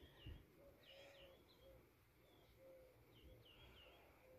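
Faint birds chirping: clusters of short, quick, downward-swept chirps, with a lower short note repeating underneath.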